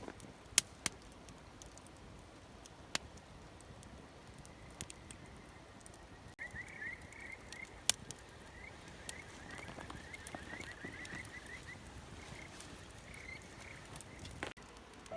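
Campfire crackling, with scattered sharp pops over a faint steady hiss, two of them loud: one near the start and one about halfway through. From the middle on, a rapid series of high chirps from an animal calls.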